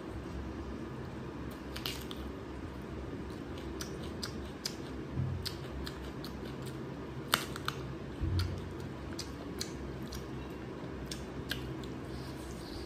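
Close-up eating sounds: chewing with wet lip smacks and many short, sharp mouth clicks scattered irregularly, over a steady low hum.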